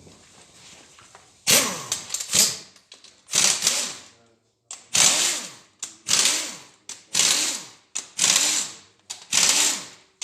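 Cordless power ratchet run in about eight short bursts, roughly one a second, starting a second and a half in; each whirr drops in pitch as it dies away.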